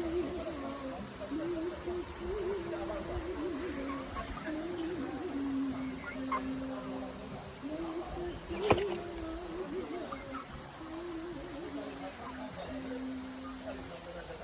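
Steady, shrill chorus of insects, crickets or cicadas, with a faint wavering voice-like tone underneath. One sharp click or knock comes about nine seconds in.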